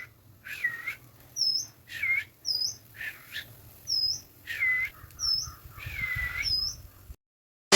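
Birds calling back and forth: longer, lower dipping calls alternate with short, high chirps, about one call every half second. The calls stop abruptly near the end.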